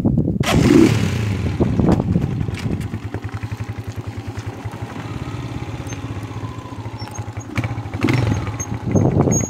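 Kuba Gold 170 motorcycle engine running at low speed on a gravel track, rougher at first, then settling into an even, regular putter, with louder uneven noise again near the end.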